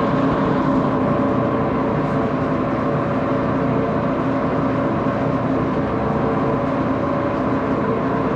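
Axelson lathe running steadily: a constant machine hum with several steady tones and no change in speed.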